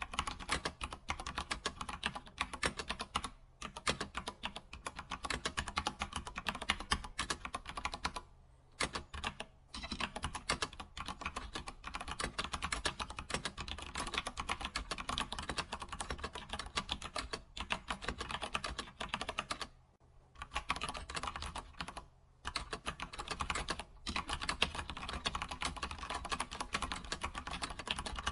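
Computer keyboard typed on at a steady fast pace: rapid key clicks, with a few brief pauses at about 3 s, 9 s, 20 s and 22 s.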